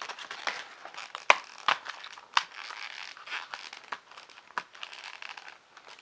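Plastic packaging of kit parts rustling as it is handled and opened, with scattered sharp clicks, the loudest just over a second in.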